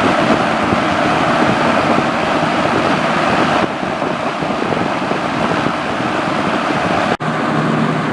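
Kmart K-223 three-speed box fan, made by Lakewood, running with a steady rush of air from its blades. The sound drops a little about three and a half seconds in. After a brief break near the end, a low steady motor hum comes through under the air.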